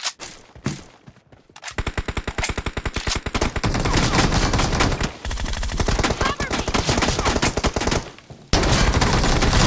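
Video-game automatic gunfire: rapid shots fired in a long stream starting about two seconds in, a short pause, then another loud burst near the end.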